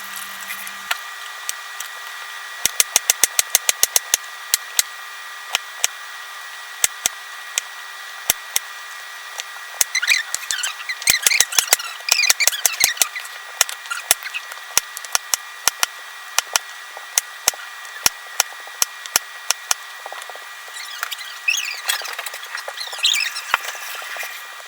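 Knife chopping a carrot on a cutting board: sharp taps, some in quick runs, with stretches of scraping about ten seconds in and near the end.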